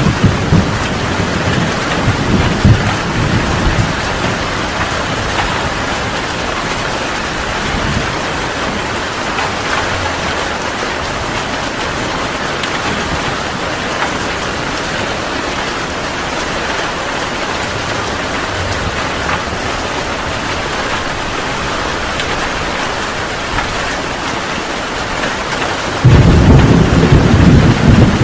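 Heavy rain falling steadily, with thunder. A low rumble fades over the first few seconds, and a loud roll of thunder breaks in suddenly near the end.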